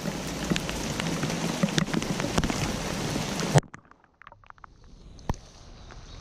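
Rain falling as a steady hiss with many small drop impacts. About three and a half seconds in it cuts off abruptly to a much quieter stretch of scattered drips, with one sharper tick near the end.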